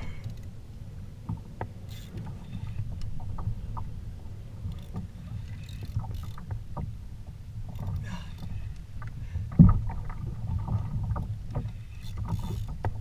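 Water moving against a kayak hull at sea, a steady low rush, with scattered small knocks and one louder thump about ten seconds in.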